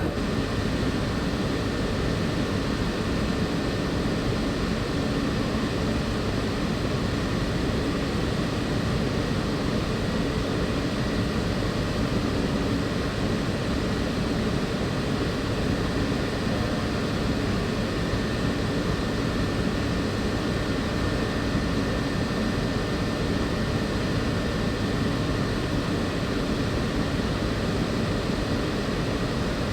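Walt Disney World monorail train running between stations, heard from inside the passenger car: a steady rumble of the train in motion with a faint steady high tone.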